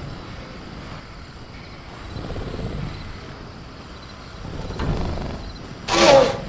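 Sound-designed velociraptor: low rumbling growls swell up twice, then a short, loud, pitched cry near the end, over a faint steady chirr of crickets.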